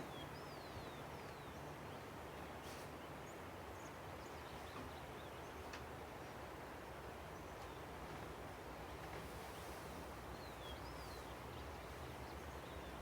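Steady rush of a river, with scattered short, falling bird whistles over it: a few near the start and a couple more about ten seconds in.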